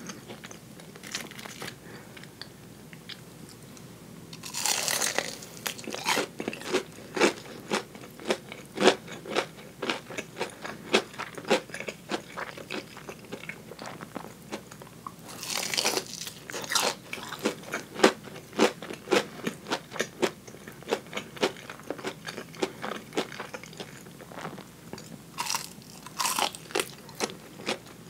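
Crispy fried chicken coating bitten and chewed close to a lapel microphone: a loud crunching bite about four seconds in, another about halfway and two near the end, each followed by a run of sharp crunchy chewing clicks.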